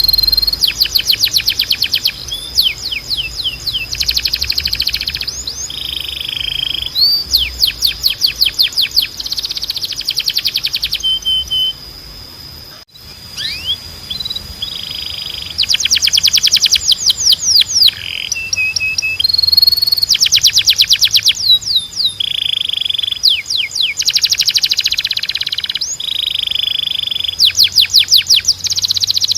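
Canary singing: fast rolling trills alternate with short held whistled notes, phrase after phrase, with a brief pause about halfway through.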